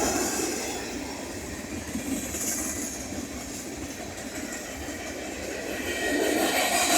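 Cars of a Union Pacific manifest freight train rolling by, steel wheels running on the rails. The sound eases off in the middle and builds again near the end.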